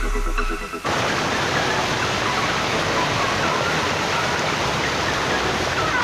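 Background music cuts off about a second in, then a waterfall rushes in a steady, even roar of falling water, with short high chirps scattered over it.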